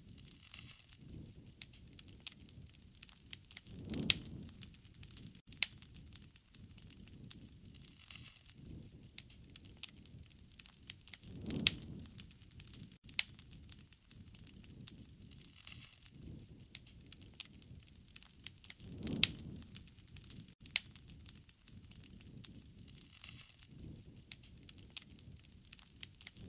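Wood fire crackling, with frequent sharp pops and snaps, and a low swell about every seven or eight seconds.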